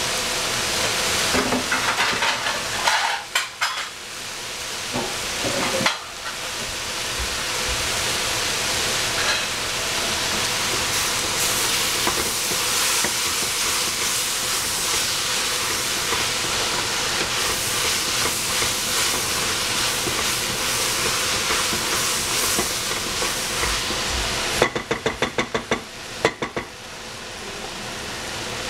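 Purple cabbage and onion frying in a pan with a steady sizzle. A few sharp knocks come about three and six seconds in, and a quick run of about eight knocks near the end.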